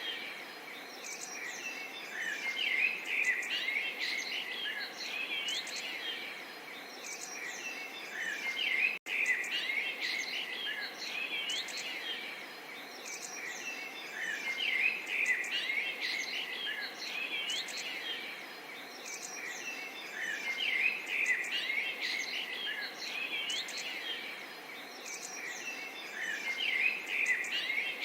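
Small songbirds chirping and trilling over a faint steady murmur of gently running water. The bursts of birdsong peak about every six seconds, and the sound cuts out for an instant about nine seconds in.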